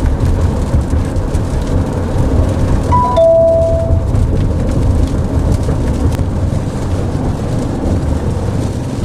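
Rain and road noise in a moving car's cabin: a steady low rumble with a hiss of rain. About three seconds in, a short two-note electronic chime, a higher note followed by a lower one held for about a second.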